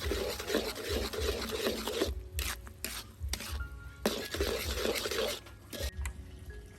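A utensil stirring and scraping food in a pan, in two spells with a few sharp knocks between them, over soft background music.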